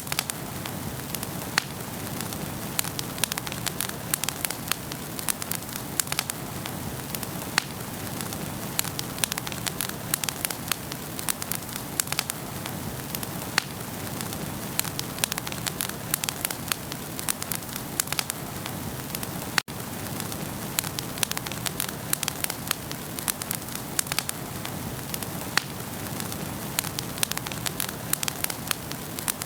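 Wood fire burning in a fireplace, crackling steadily with many irregular sharp pops over the soft hiss of the flames. The sound cuts out for an instant about two-thirds of the way through.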